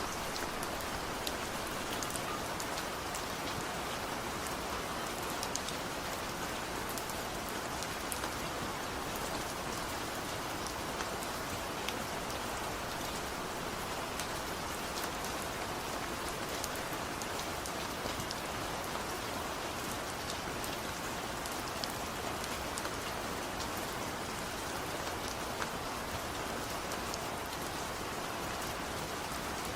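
Steady light rain falling, a continuous hiss with scattered sharp drop ticks on a hard surface.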